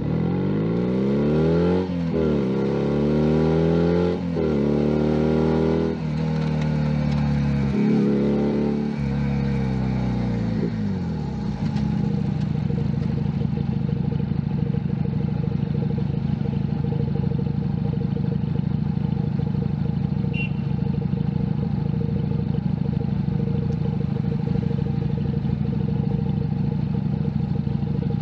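A Junak M11 Cafe's 125 cc engine accelerating up through the gears, its pitch rising and dropping back with a shift about every two seconds, then falling as the bike slows, and idling steadily for the second half.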